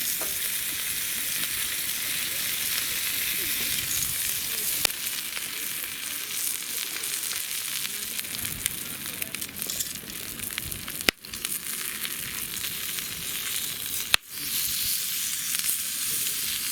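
Food frying in a hot pan: a steady sizzle with occasional small pops, broken off briefly twice.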